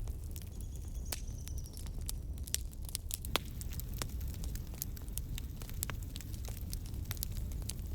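Wood fire crackling, with irregular sharp pops and snaps over a steady low rumble of flame. A faint high whistle is heard for about a second near the start.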